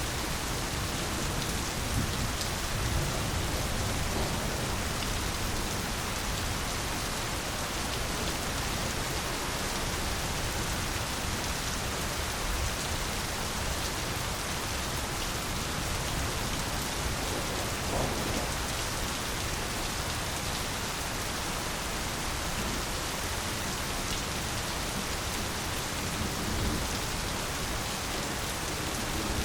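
Steady rain falling, an even hiss with a few slightly louder drop splashes.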